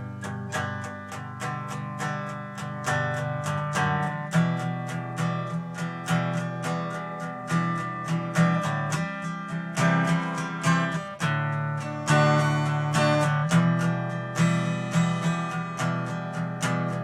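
Acoustic guitar strummed in a steady rhythm, playing the instrumental introduction to a worship song.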